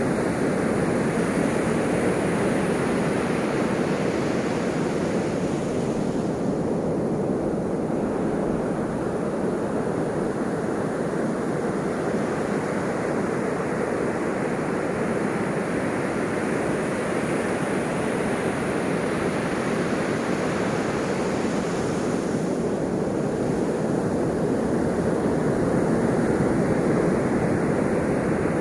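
Ocean waves washing on the shore: a continuous rush of surf, its higher hiss easing off briefly twice.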